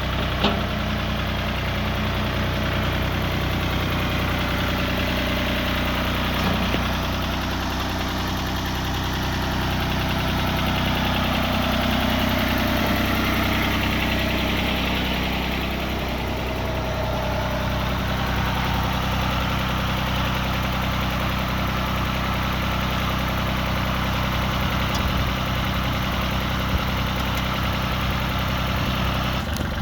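Fiat-Hesston 55-46 tractor's diesel engine idling steadily, swelling slightly in loudness near the middle.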